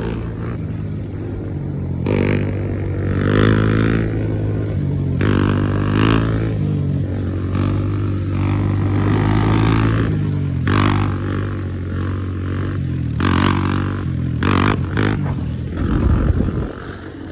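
Dirt bike engine running hard and revving, its pitch climbing and dropping repeatedly as the throttle is worked, with sharp surges several times.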